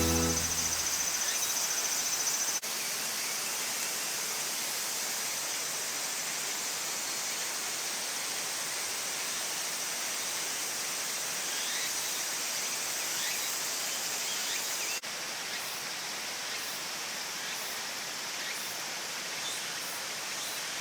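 Steady outdoor ambience: an even rushing hiss with a thin high band of insect calls. It changes abruptly twice, where the recording is cut.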